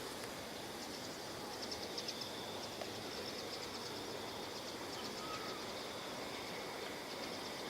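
Quiet outdoor ambience: a steady background hiss with faint high-pitched insect trilling, briefly a fast ticking trill about two seconds in.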